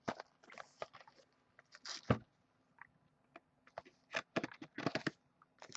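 Faint, irregular light clicks and rustles of small objects being handled, with a soft knock about two seconds in and a quick cluster of clicks later on.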